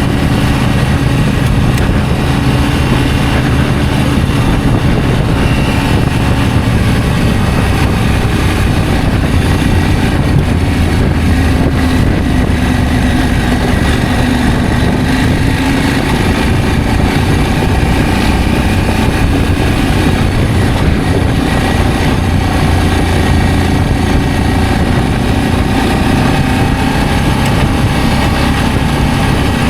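Adventure motorcycle engine running steadily while riding, with a constant low drone and little change in speed.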